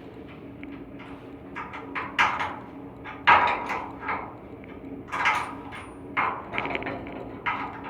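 Repeated, irregularly spaced metallic clanks and knocks from hands and tools working on an air handling unit's blower during a V-belt change, over a low steady hum.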